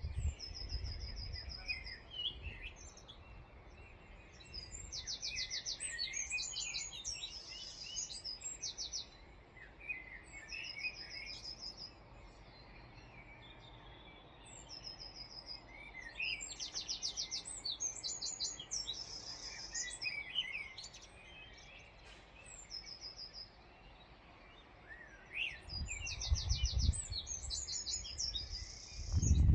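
Songbirds singing: a high song made of a short trill and then a rapid run of notes comes back about every ten seconds, with lower chirps in between. A low rumble is heard briefly at the start and again near the end.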